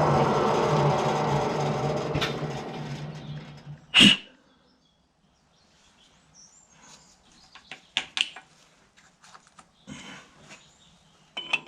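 Metal-turning lathe running with a steady hum and cutting noise that fades away over the first few seconds, then a single sharp clunk. After that, only light clicks and taps of a metal part being handled.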